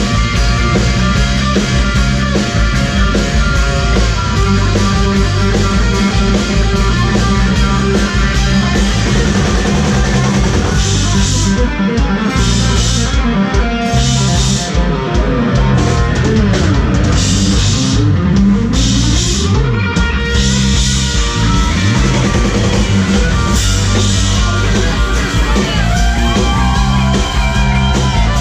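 Loud rock music with a drum kit and an electric guitar lead, its notes sliding and bending in pitch.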